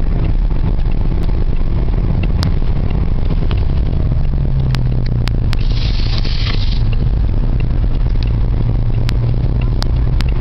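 Car engine running steadily at low speed, heard from inside the cabin, with road noise, scattered light clicks, and a brief hiss about six seconds in.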